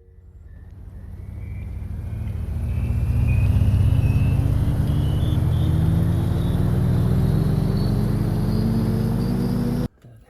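A motor vehicle engine accelerating, with a slowly rising pitch and a high whine climbing alongside it. It builds up over the first few seconds, holds loud, then cuts off abruptly near the end.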